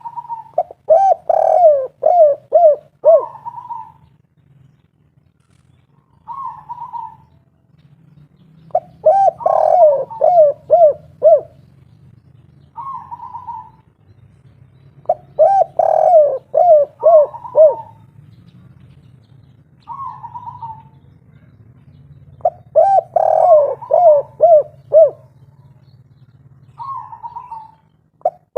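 Spotted dove (tekukur) of the 'kuk 3' song type cooing in repeated phrases: each opens with a higher note and runs into about five quick coos, with single short coos in between, about four full phrases in all. A faint steady low hum runs underneath.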